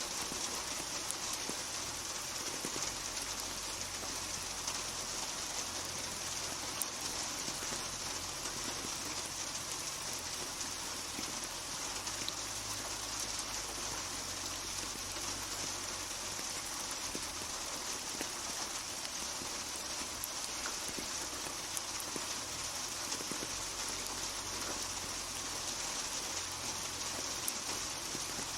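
Steady rainfall, drops hissing and pattering on a surface, with occasional single drops standing out as faint ticks.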